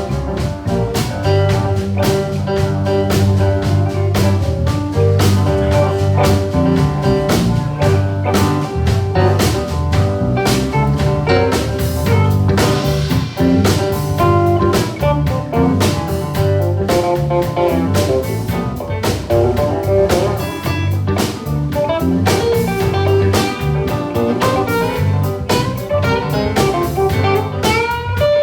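Live blues band playing an instrumental passage, with guitar over a steady bass line and drum kit.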